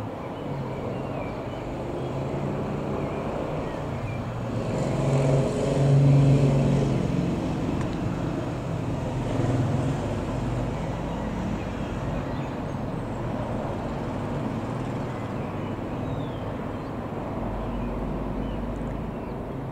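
Beechcraft Super King Air B200 twin turboprop flying past, its propeller and engine drone swelling to a peak about six seconds in and then fading to a steady distant drone.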